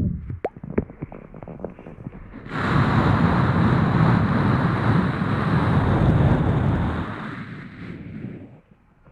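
Soft scattered crackles, then a loud, even rushing noise right on an ASMR microphone for about four and a half seconds, fading away near the end.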